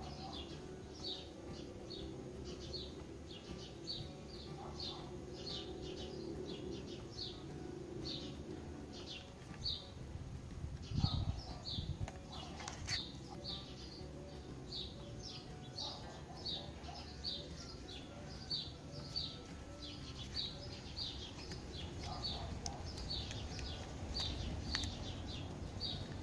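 A bird chirping over and over in short high notes, about two a second, over a low steady hum. A few soft knocks and rustles come from the phone's accessories and box being handled, the loudest about halfway through.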